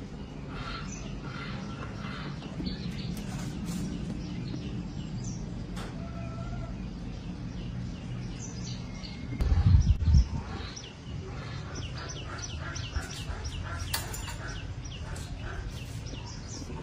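Small birds chirping repeatedly over a steady low hum, with a loud low rumble lasting about a second near the middle.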